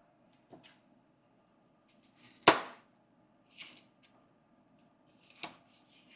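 Sparse sharp knocks and clatters of kitchen utensils and cookware, about five separate hits with the loudest about two and a half seconds in.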